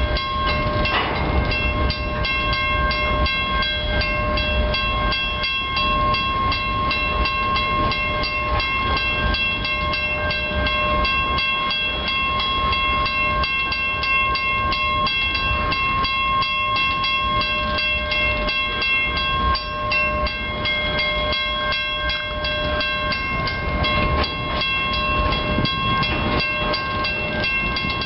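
Grain hopper cars of a freight train rumbling steadily past a level crossing. The crossing's warning bell rings over it in a fast, even, unbroken rhythm.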